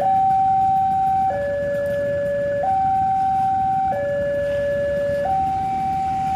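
Electronic two-tone warning siren, switching evenly between a higher and a lower tone about every second and a quarter.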